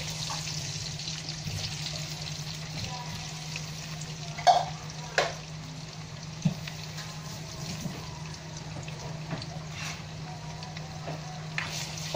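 Potato wedges sizzling in hot oil in a wok, over a steady low hum. A few sharp knocks come through, the loudest about four and a half and five seconds in.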